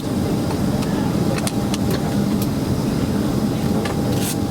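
Steady cabin drone inside a Boeing 767-300ER with its engines running, a low even rumble with a thin steady whine over it and a few faint clicks.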